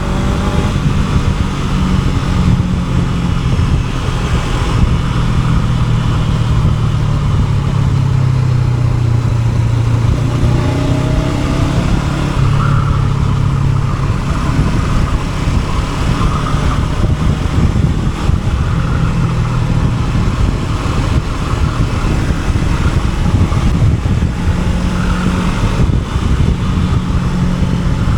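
Honda NX500 parallel-twin motorcycle engine running under way, with steady wind and road rush over the microphone. The engine note rises and falls with the throttle and gear changes.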